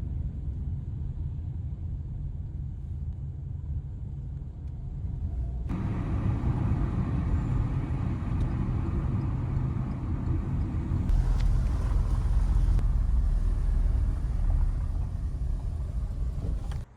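Steady low rumble of road traffic. It grows fuller about six seconds in and stops abruptly near the end.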